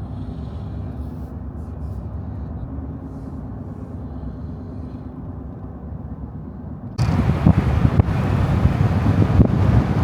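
Steady low rumble of a moving vehicle. About seven seconds in it changes suddenly to louder, buffeting noise like wind on the microphone.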